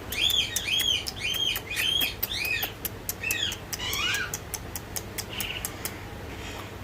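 Young Indian ringneck parakeet giving a quick run of about six short, arched calls, then a few scattered calls a little later, over a steady patter of sharp ticks.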